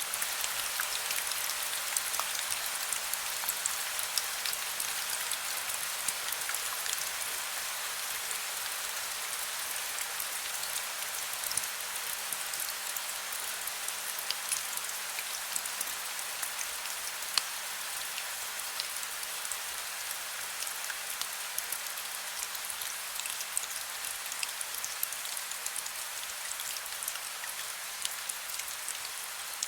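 Heavy rain falling steadily: a dense hiss of drops with many small individual patters, and no thunder.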